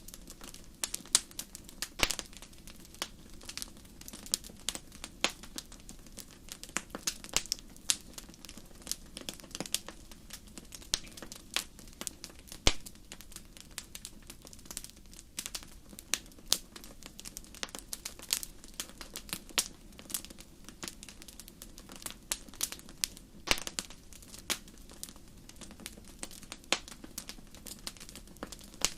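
Wood fire burning in a fireplace: continual irregular crackles and sharp pops over a soft low hiss.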